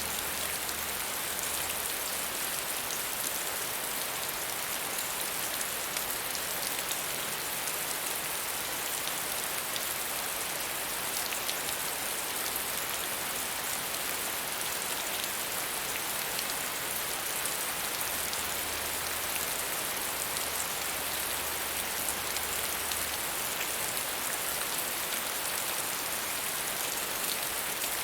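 Steady medium rainfall, an even hiss of rain with faint individual drop ticks. A faint low hum sits beneath it at times.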